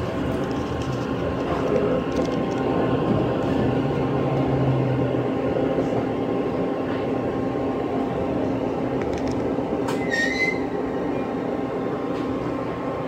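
Inside an E257-series electric train running slowly: a steady running rumble and hum, with one brief high squeal about ten seconds in.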